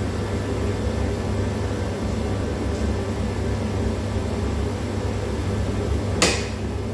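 Steady low machine hum, with a single sharp knock about six seconds in.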